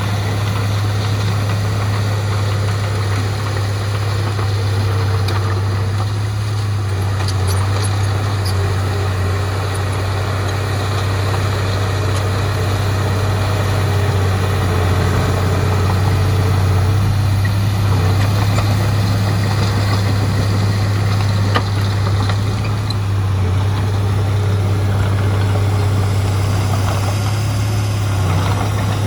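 Heavy diesel engine of earthmoving machinery running steadily at an even pitch, with a deep constant hum and a few faint clanks.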